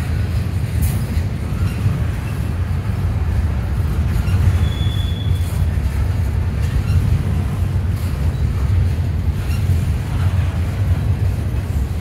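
Double-stack container train's well cars rolling past at steady speed: a continuous low rumble of wheels on rail. A brief high wheel squeal comes about five seconds in.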